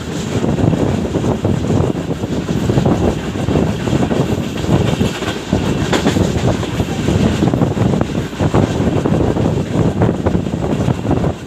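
Moving passenger train: a steady rumble and rattle of the wheels on the rails, with irregular knocks from the coaches.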